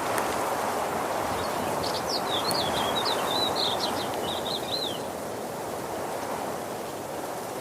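Steady rushing of a waterfall, with a small bird singing a warbling phrase of quick high notes over it for a few seconds about a second in.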